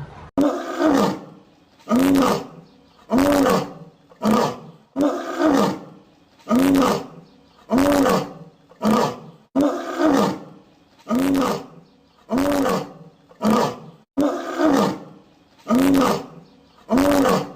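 Lion roaring: a long run of short grunting roars, a little under one a second, each rising then falling in pitch.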